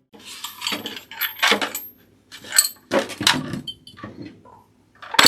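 A string of short, irregular clinks and rattles of hard metal, plastic and glass parts being handled and fitted together.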